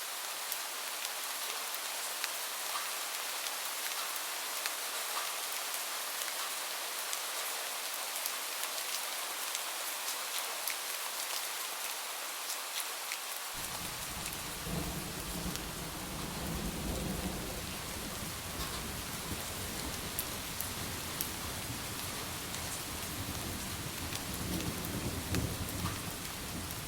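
Steady rain with small drop ticks throughout. About halfway through, a low thunder rumble comes in suddenly and carries on to the end, swelling twice.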